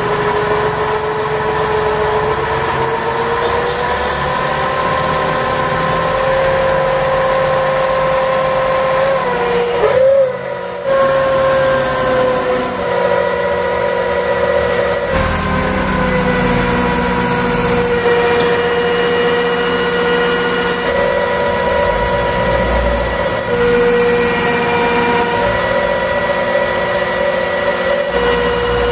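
A small motor running steadily with a held whine whose pitch drifts slowly up and down. It breaks off briefly about ten seconds in, then runs on.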